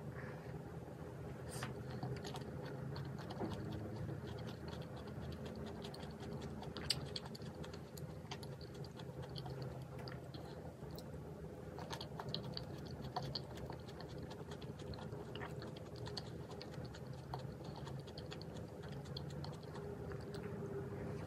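Close-up mukbang eating sounds: chewing with many small irregular clicks and crackles. A faint steady hum runs underneath.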